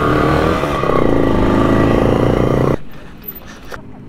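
Two-stroke Simson moped engine running hard under throttle. Its note shifts a little under a second in, then the engine sound cuts off abruptly a little under three seconds in, leaving only a faint background.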